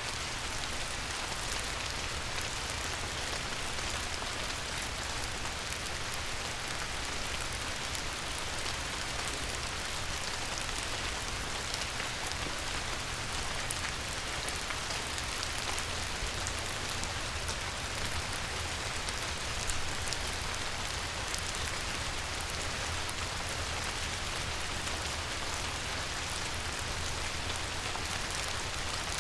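Light rain falling on a river's surface: a steady hiss made of countless fine drop patters, with a low steady rumble underneath.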